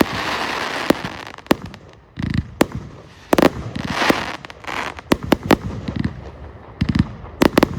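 A 'Zeus' 138-shot firework compound cake of 25 and 30 mm tubes firing: a quick run of sharp cracks and deeper booms as shells launch and burst, with a crackling fizz after several of the bursts.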